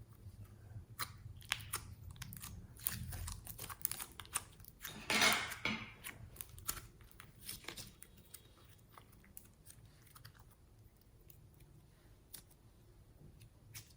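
Clear slime being mixed and squished, giving many short sticky clicks and crackling pops, with a louder crackly squelch about five seconds in; the clicking thins out over the last few seconds.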